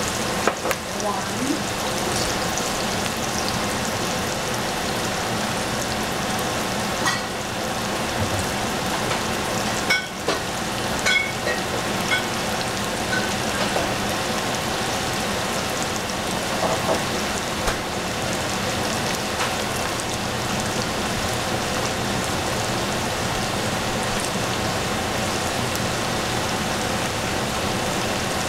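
Chopped onion sizzling steadily as it fries in oil in an enameled cast-iron pot, with a few small pops about ten seconds in.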